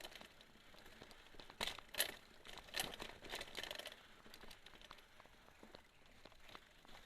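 Mountain bike rolling over a dirt forest trail: irregular crackles, crunches and rattles of tyres on dirt and debris and of the bike jolting over the ground.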